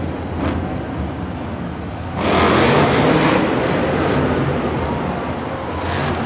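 Monster truck engine running with a deep, steady rumble, then a sudden, much louder surge about two seconds in that holds for a second or so and tapers off.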